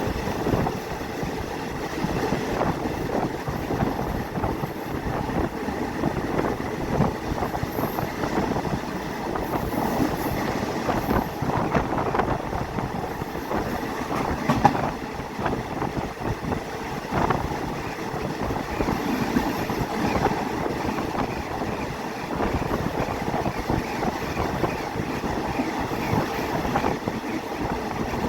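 Passenger train running along the line, heard from on board: a steady rumble of wheels on rails with irregular small clicks and rattles.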